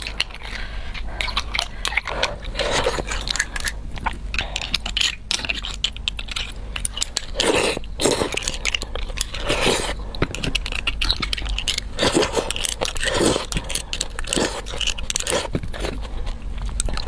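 Close-miked chewing and biting on beef bone marrow and a tough tendon that won't bite through, with many short wet clicks and smacks.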